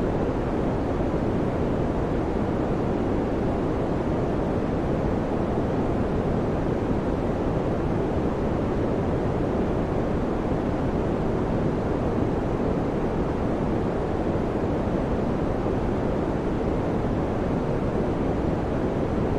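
Electric fan running steadily, giving an even, deep rushing of air with no hum, rattle or rhythm.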